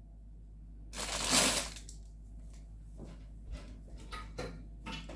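A scraping, crunching burst lasting about a second, starting a second in, then a few light clicks and knocks from kitchen items being handled.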